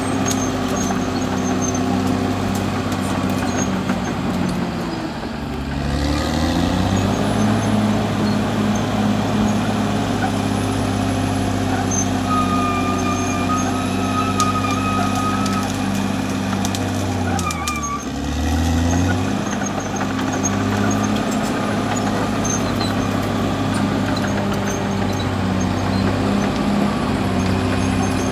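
Caterpillar D6R XL bulldozer's diesel engine running steadily, its pitch dipping and recovering twice: about five seconds in and again a little past the middle. A thin high whine rides over the engine for several seconds before the second dip.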